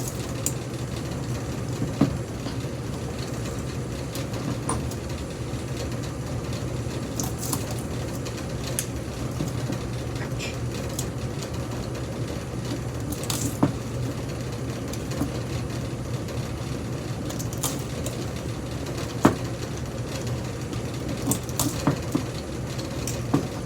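A steady low mechanical hum runs under scattered sharp clicks and metallic ticks as a ceiling fan motor is worked apart by hand for its copper windings.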